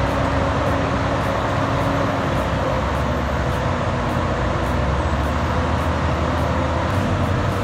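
Heavy diesel machinery running steadily and loud, a dense engine noise with a few held low tones and no letup.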